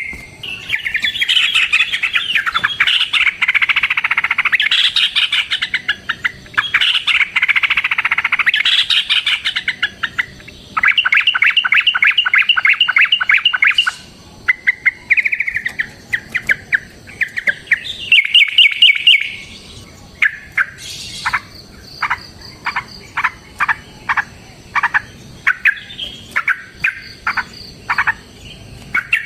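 Yellow-vented bulbul singing: long bouts of loud, fast chattering and rapid trills, then a run of short separate notes about two a second.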